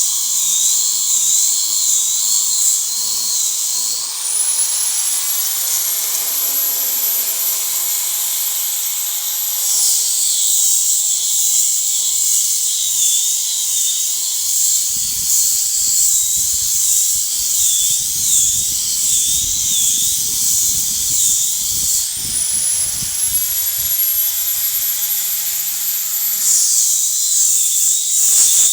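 Electric hand grinder sanding a wooden bed rail, its motor whining steadily. Twice the whine glides up to a much higher pitch, holds there for several seconds and drops back down.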